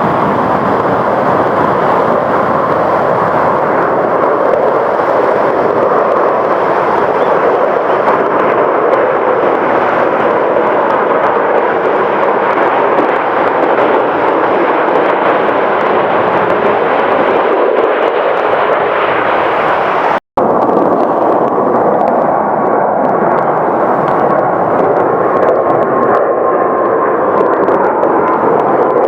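Jet airliner engines running loud and steady, first a Boeing 787-9's. After a brief cut about two-thirds through comes a Boeing 777-300ER's GE90 engines, with a steady whine over the jet noise.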